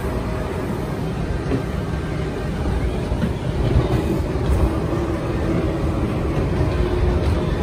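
Passenger train running at speed, heard from inside the carriage: a steady low rumble of wheels on the track with a faint steady hum underneath.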